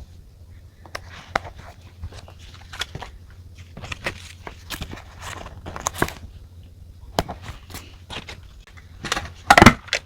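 Close-up desk sounds of journaling: paper and stationery being handled, with scattered small clicks, taps and rustles. A single loud thump about nine and a half seconds in.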